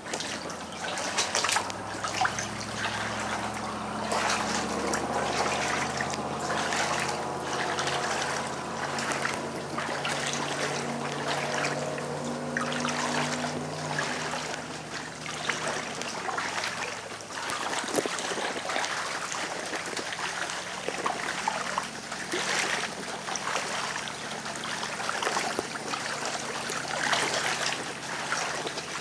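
Floodwater running and trickling steadily, with a steady low hum during the first half that fades out about halfway through.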